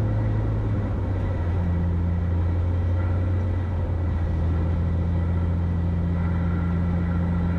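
A light single-engine Cessna's piston engine and propeller running with a steady low drone on the landing approach. The pitch drops slightly about a second in.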